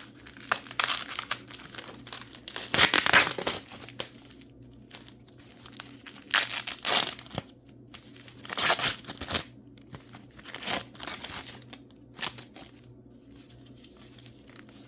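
Packing wrap crinkling and tearing by hand in irregular bursts as a mineral specimen is unwrapped, loudest about three seconds in and again around the middle.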